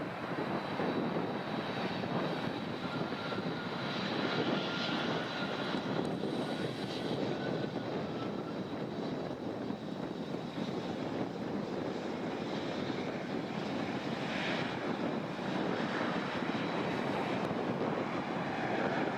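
Airliner engines running steadily, a dense rumbling rush with a thin high whine held over it.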